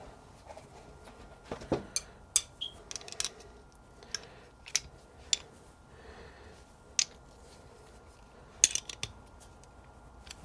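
Small metal clicks and taps of a brake lever, its pivot bolt and hand tools being handled while the lever is refitted to a rebuilt motorcycle front brake master cylinder. The clicks come in scattered groups, a quick run of them near the start and another near the end.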